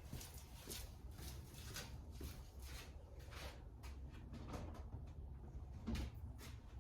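Trigger spray bottle misting isopropyl alcohol onto a car windshield: a series of short, faint hisses, one per trigger pull, roughly every half second to a second.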